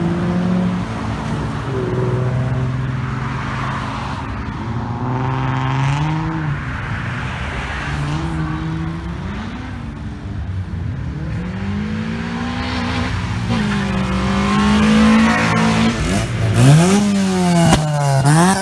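Car engines driving off, the revs climbing and dropping as they pull away and shift. Near the end one car accelerates hard, with quick steep rises in revs and a few sharp cracks from the exhaust.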